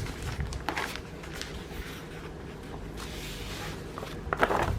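Cross-stitch kit being handled: light rustling with a few soft taps and clicks of packaging, over a steady low room hum.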